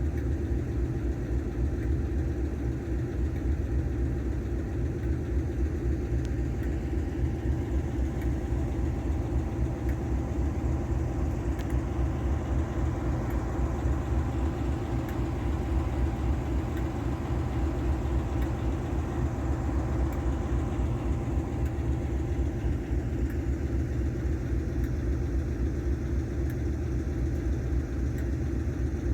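Diesel locomotive engine running steadily at a constant speed, a deep, even drone with no change in pitch.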